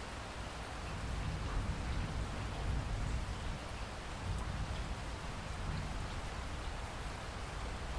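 Steady rain falling, an even hiss with a low rumble and scattered faint drop ticks, swelling slightly about a second in.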